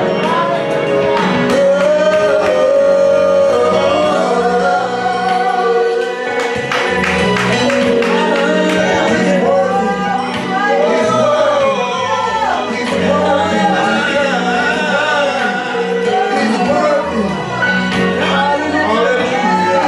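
Gospel worship song: singing with instrumental accompaniment, continuous and steady in loudness.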